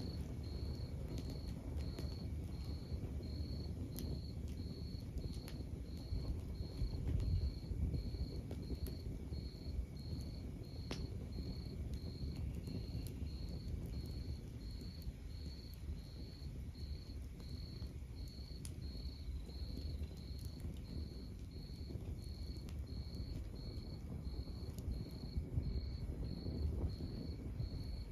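Wood fire burning in a fireplace: a low steady rumble with scattered sharp crackles and pops. Throughout, a high-pitched chirp repeats evenly a little over once a second.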